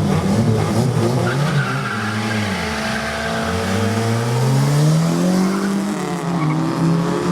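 Drag race car accelerating hard down the strip with tyre squeal. The engine note drops about two and a half seconds in, climbs again over the next two seconds, dips briefly near six seconds, then holds high, as at gear changes.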